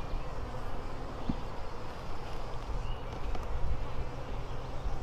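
Swarm of honeybees buzzing steadily around an open hive as its frames are lifted and inspected, with a faint click about a second and a half in.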